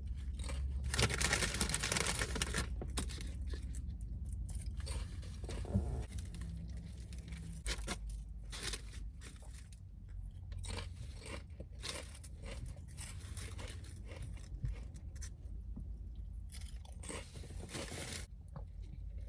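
A person chewing and biting into a chicken tender sub close to the microphone, with irregular crunching of the breaded chicken and bread and a denser burst of crunching in the first few seconds.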